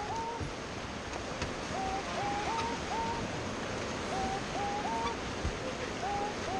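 Rushing water of Beas River rapids, steady, under a repeating melody of short rising notes that come in groups of two to four.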